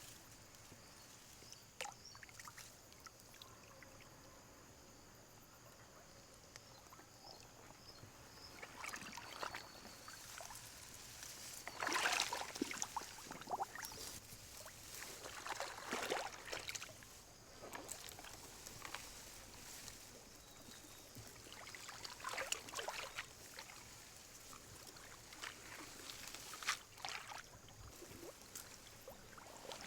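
Water sloshing and splashing in irregular bursts, loudest about twelve and sixteen seconds in.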